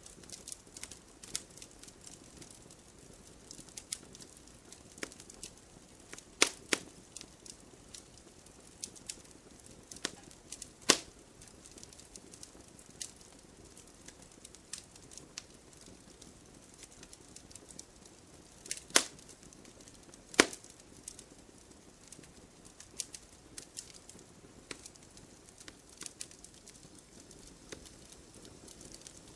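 Wood fire crackling: irregular sharp pops and snaps over a soft steady hiss, with a few louder pops, about a quarter and a third of the way in and twice about two-thirds in.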